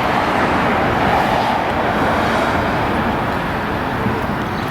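Steady noise of cars and traffic, an even rumble and hiss with no distinct separate events.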